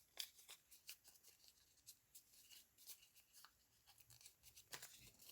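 Faint scattered rustles and light taps of folded paper being handled and inked by hand.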